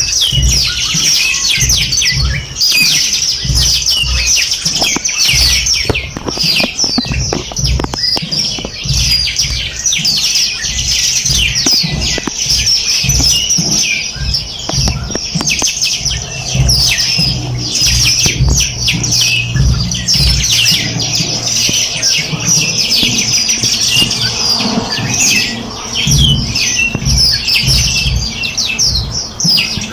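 Many songbirds chirping and twittering at once, a dense overlapping chorus of short high calls, with low rumbling thumps underneath.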